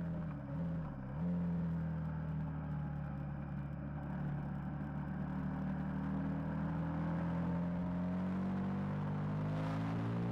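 KTM 990 Super Duke's V-twin engine running hard under load, its revs dipping briefly twice about half a second and a second in. After that the note holds steady, sags a little through the middle, and climbs again near the end.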